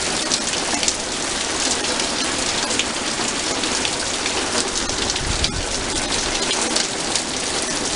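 Steady downpour of rain, with many sharp ticks of drops striking close to the microphone. A brief low rumble comes a little past halfway.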